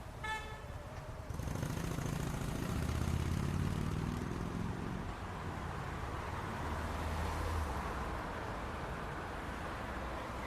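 City street traffic: vehicle engines running and passing, with one engine drone rising in pitch as it pulls away a couple of seconds in. A brief high-pitched beep sounds right at the start.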